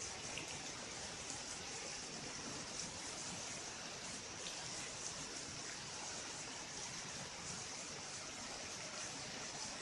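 Steady rushing of flowing floodwater, an even hiss with no distinct events.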